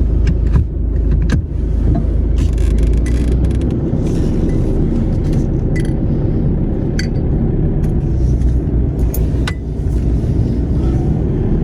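A vehicle driving along a rough farm track, with a steady low rumble, scattered rattles and knocks, and strong wind buffeting the microphone.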